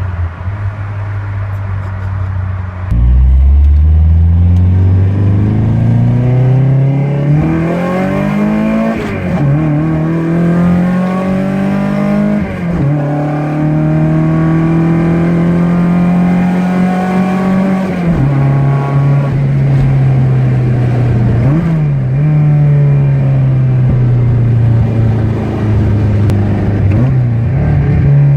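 Four-cylinder car engine running steadily, then pulling hard about three seconds in, its pitch climbing and dropping sharply at each of three upshifts. It eases into a slowly falling note near the end.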